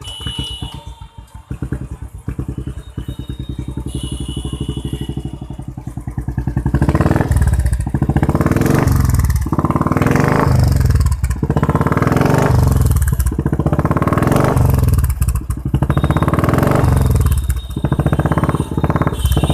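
Motorcycle running through a Red Rooster aftermarket exhaust: it idles with a steady pulsing beat at first, and from about seven seconds in it is revved again and again in short throttle blips that rise and fall.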